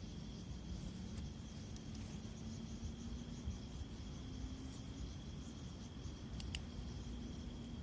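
Faint outdoor ambience: a steady, thin high-pitched tone like an insect trill over a low rumble, with a couple of faint clicks.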